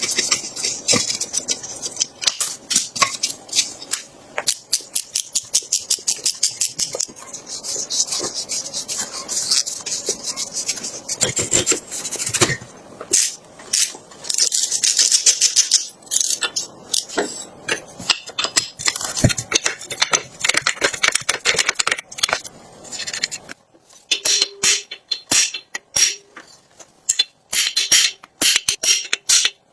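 Rapid, rhythmic scraping strokes, hand work on a rusty part, coming in runs. It thins to a few scattered clicks and taps in the last few seconds.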